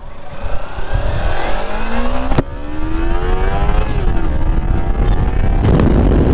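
Motorcycle engine accelerating away from a standstill: the revs climb, drop at a gear change about four seconds in, then climb again, with wind noise building as it gathers speed. Two sharp clicks are heard along the way.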